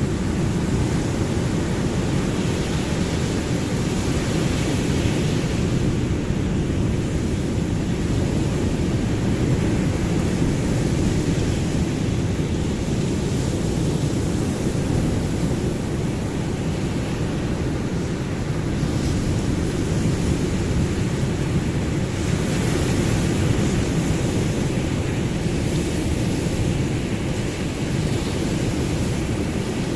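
Ocean waves and surf: a continuous low rumble of water, with the hiss of breaking surf swelling a little about five seconds in and again past twenty seconds.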